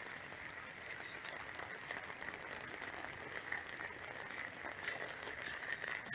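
Heavy rain falling, a steady faint hiss with many scattered drop ticks, heard through a phone's microphone.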